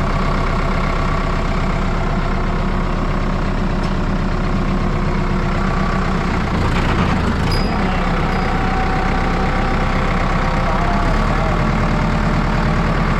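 Farm tractor engine running steadily under way, with a brief rattle or clatter about seven seconds in.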